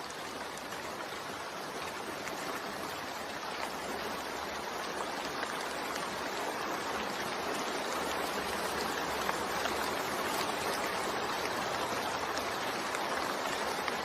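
Steady rain falling, an even hiss with fine patter that slowly grows louder.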